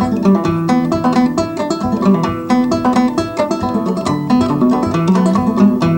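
Banjo picking an instrumental break of an old-time tune, with a quick, steady run of plucked notes and no singing.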